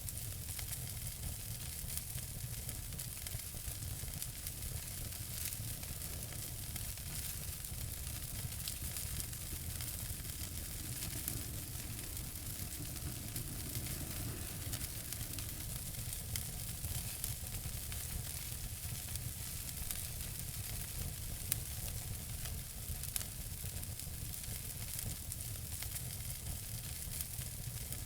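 Wood fire in a fireplace crackling steadily, a dense run of small snaps and pops over a low rumble, with a couple of sharper pops past the middle.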